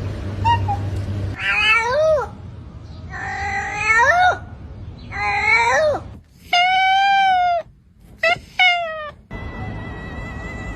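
A cat meowing about six times. The calls rise and fall in pitch, one is long and drawn out, and the last two are short. Near the end a steady held tone with a low hum comes in.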